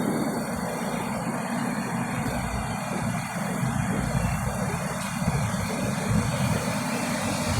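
Mazda 3's 1.5-litre four-cylinder petrol engine idling steadily, a low even rumble.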